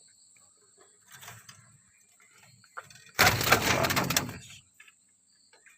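A startled zebra dove chick flapping and scrabbling as it tumbles out of its nest in the cage: a loud burst of fluttering and clattering about three seconds in, lasting over a second, after some quieter rustling.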